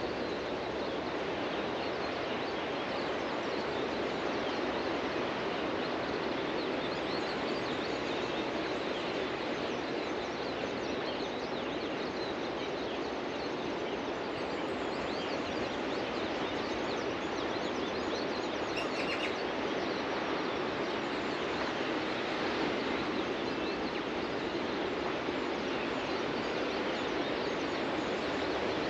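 Steady rush of ocean surf breaking on a beach, with faint bird chirps above it.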